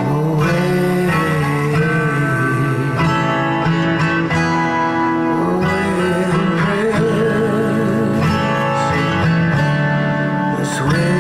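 Instrumental guitar music: a solo melody with bent, wavering notes played over steadily held guitar chords.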